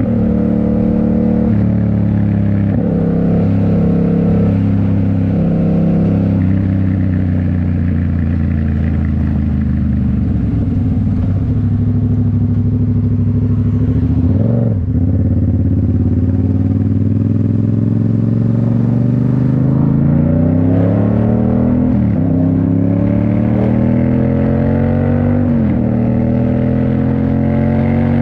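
A 2019 Yamaha MT-07's parallel-twin engine running through a Toce full exhaust while being ridden. The engine note falls away for roughly the first half with a brief dip just before halfway. It then pulls hard, the pitch climbing and dropping back at each gear change, twice near the end.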